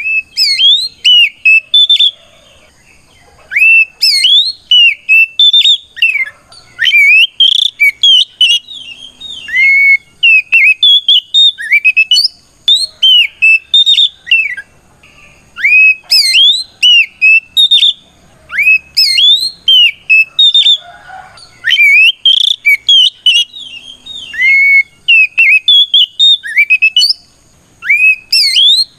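Oriental magpie-robin singing loud, clear whistled phrases of rising and falling notes, phrase after phrase with short pauses between. This is the open-voiced challenge song a male uses to call out a rival.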